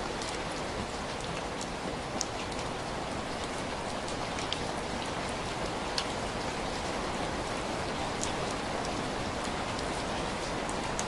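Steady rain mixed with a crackling fireplace: an even hiss with scattered sharp crackles.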